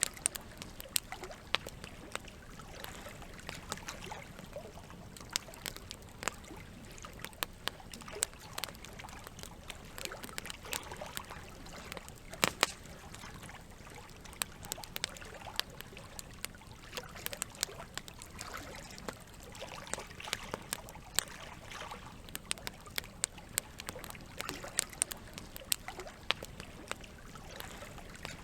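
Wood fire crackling with frequent sharp, irregular pops, one louder pop near the middle, over a steady background of running water.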